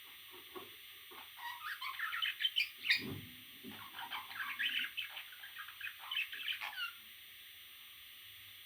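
Parrot chicks squawking and chirping in quick strings of short calls, starting about a second and a half in and stopping about seven seconds in, with a brief low thump around the middle. A steady hiss runs underneath.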